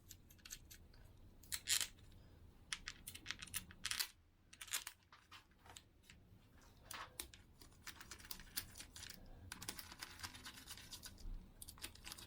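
Faint metal clicks and scraping of small steel screws being handled and threaded into a Yamaha YZ125 engine's clutch cover; the threads grate slightly.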